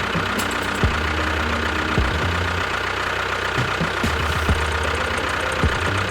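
An engine running steadily, with a low drone and scattered knocks.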